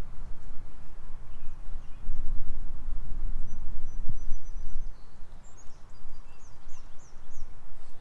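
Small birds chirping over a heavy, steady low rumble on the microphone. A rapid high trill comes in the middle, then a run of quick falling chirps near the end.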